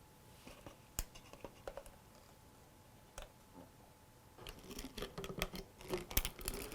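Small handling noises at a workbench: a few isolated light clicks or taps, then from about four and a half seconds in a busier run of clicking, tapping and rubbing.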